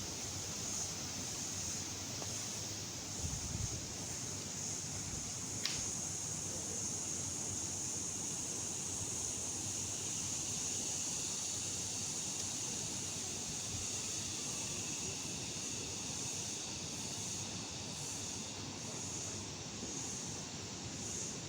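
Steady high-pitched insect chorus with a faint pulsing, over a low rumble of wind; a single sharp click about six seconds in.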